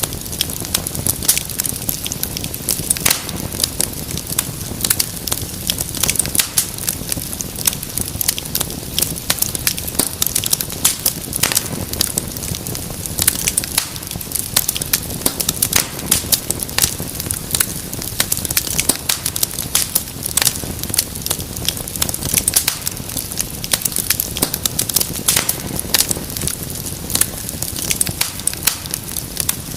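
Wood fire crackling: frequent irregular pops and snaps over a steady low hiss of burning.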